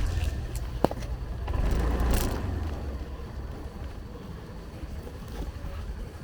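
Small motorbike's engine running at low speed, with a steady low rumble that eases off partway through and a sharp click about a second in.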